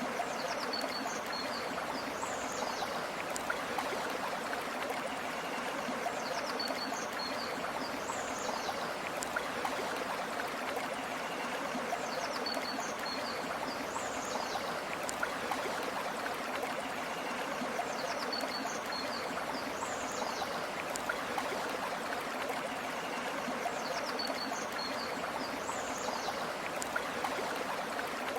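River water flowing steadily, a dense even rush. A short high chirping phrase recurs about every six seconds over it, the same each time, as in a looped ambience track.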